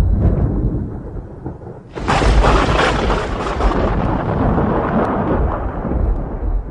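Thunder in a rainstorm: a low rumble dies down, then about two seconds in a sudden close crack breaks into a long rolling rumble that fades near the end.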